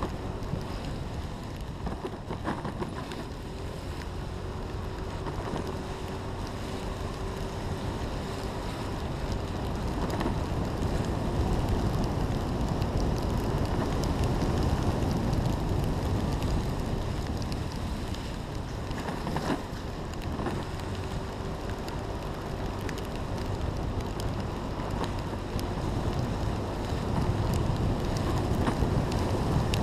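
Steady wind noise buffeting an action camera's microphone, a low rumble that slowly grows louder, with a faint steady hum underneath.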